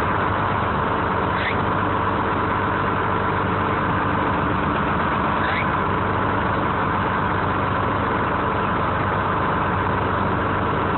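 The engine of a 1970 American 7510 crane running steadily, with two brief faint rising squeaks about a second and a half in and again about five and a half seconds in.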